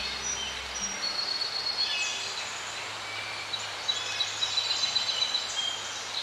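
Forest ambience: several birds singing and calling in overlapping short, high whistled phrases and trills over a steady background hiss.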